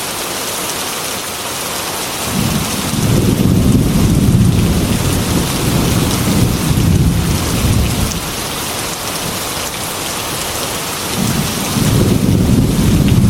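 Steady heavy rain hissing on glass, with rolling thunder that swells in about two seconds in, rumbles for around six seconds, and starts rumbling again near the end.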